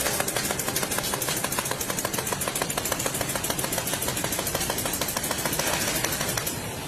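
Rapid mechanical clatter from a machine at work: a fast, steady run of sharp strikes, several every second, easing off near the end.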